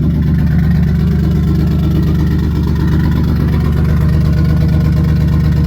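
Turbocharged Infiniti G35's 3.5-litre V6 running steadily at idle, with a hiss that the owner suspects is a vacuum leak at the gauge lines.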